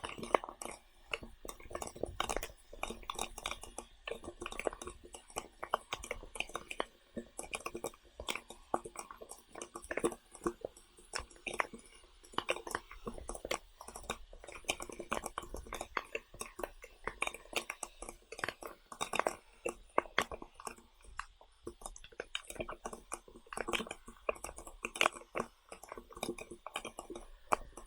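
A person chewing and eating food close to the microphone: a dense, irregular run of wet smacks and small crunchy clicks.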